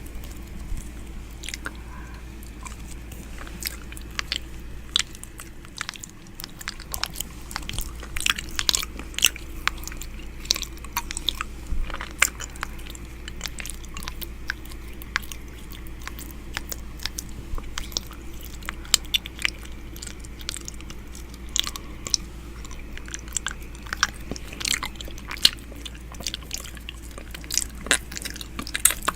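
ASMR 'ear eating' mouth sounds made right at the microphone: irregular wet clicks and smacks of lips and tongue, several a second, over a steady low hum.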